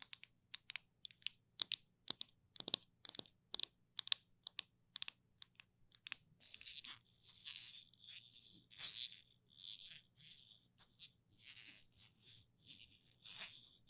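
Sticky ASMR sounds: a rapid run of sharp sticky clicks and pops for about six seconds, then longer crackling peeling sounds like tacky material being pulled apart.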